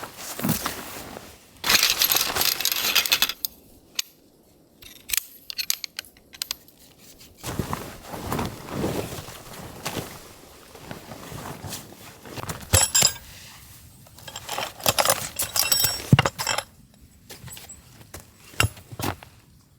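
Camping gear being handled by hand: small metallic clinks mixed with rustling, in several short bouts with pauses between.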